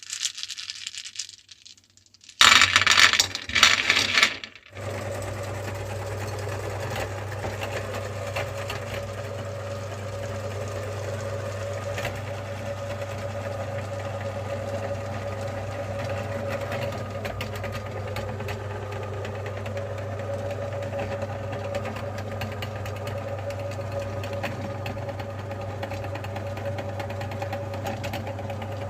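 Electric meat grinder motor running with a steady hum. About two seconds in there is a loud, rough, noisy stretch lasting about two seconds, before the steady running takes over.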